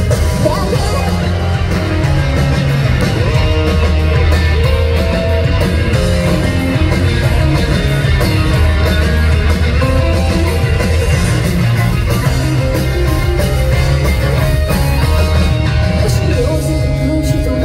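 J-rock band playing live through a concert PA: guitar, bass and drums, with a woman's lead vocal.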